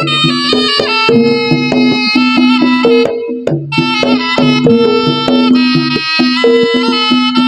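Javanese jaranan music through a loud PA sound system: a shrill reed pipe, the slompret, plays a melody of held, changing notes over kendang drum strokes and a repeating low gamelan pattern.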